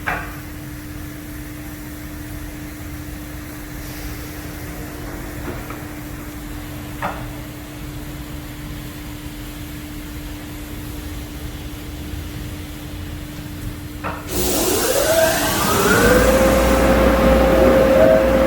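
Steady machinery hum, then about fourteen seconds in car wash blower dryers switch on: a sudden loud rush of air, with a whine that rises in pitch as the fans spin up and then holds steady.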